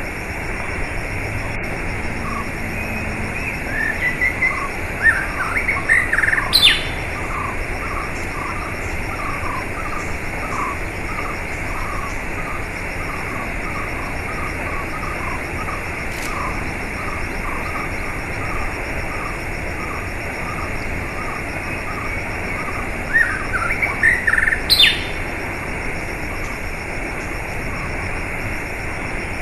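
Small songbirds chirping over a steady rush of running water. There is a run of short, repeated chirps, and twice a louder song phrase ends in a quick rising note: about five seconds in and again near the end.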